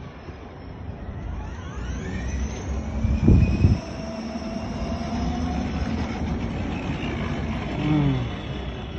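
Electric motor and gearbox of a child's battery-powered ride-on motorbike whining as it drives, the whine rising in pitch about two seconds in, with a louder bump about halfway through.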